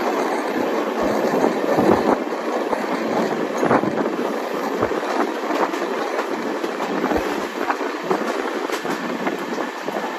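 Passenger train running on rails: a steady rumble with scattered short knocks from the wheels and coach.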